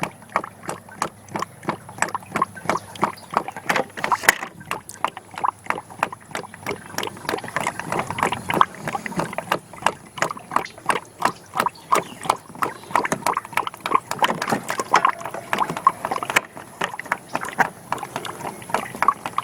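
Hydraulic oil glugging out of a 5-gallon bucket into a funnel on a Ford 2000 tractor, a quick, irregular gurgle of several glugs a second as air pushes back into the bucket.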